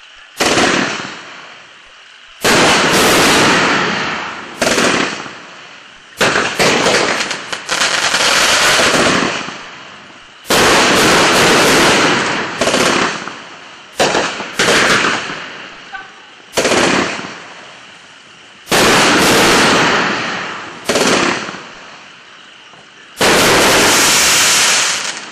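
Winda 'Fat Lady' 30-shot consumer fireworks cake firing: about a dozen aerial shells bursting one after another. Each burst is a sudden bang followed by crackle and sizzle that fades over a second or two, with a long loud burst near the end.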